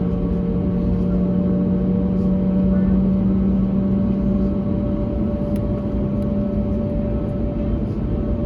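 Steady cabin drone of an Airbus A321neo's Pratt & Whitney PW1100G geared turbofan engines: a rush of air and engine noise with a low, even hum that rises a little in pitch over the first few seconds.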